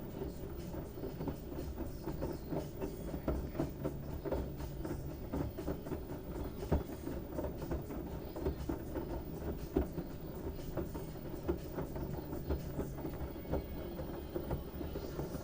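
LG washing machine running with a load of wet towels: a steady low hum under a busy, irregular run of knocks and thuds as the load moves in the drum.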